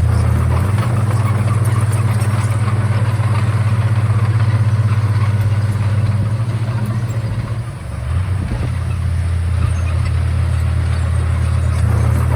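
Komatsu D31A bulldozer's diesel engine running with a steady low drone. About two-thirds of the way through it briefly drops in level and pitch, then comes back up to the same steady running.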